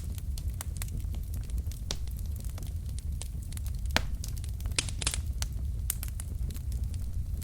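Wood logs burning in a fireplace: a steady low rumble of flame with irregular crackles and sharp pops, the loudest about four and five seconds in.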